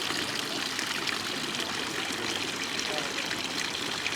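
Running water, a steady trickling stream of water.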